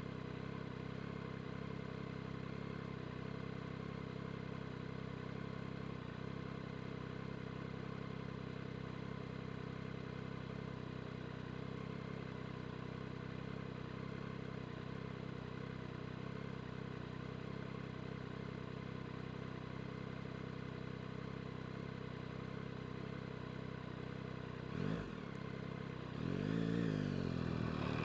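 Yamaha MT-09 SP's three-cylinder engine running steadily at an even, low engine speed. Near the end comes a quick throttle blip, then the revs rise and fall.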